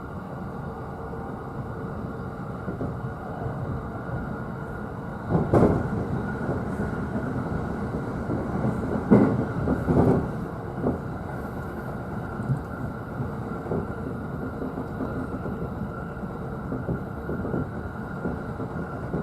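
Running noise of a JR East E531 series electric commuter train heard from the upper deck of a double-deck car: a steady rumble, with a few sharp rail-joint clacks about five seconds in and again around nine to ten seconds in.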